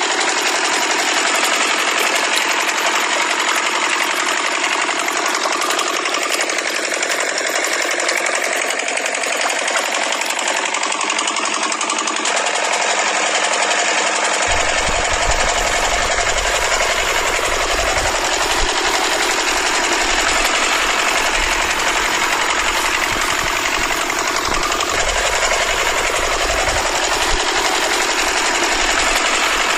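Small model engine running with a steady, fast mechanical rattle. About halfway through, a low rumble joins it.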